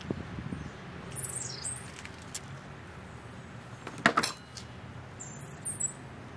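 Garden birds chirping, with high calls that fall in pitch about a second in and again near the end, over a steady low background hum. A single sharp knock about four seconds in is the loudest sound.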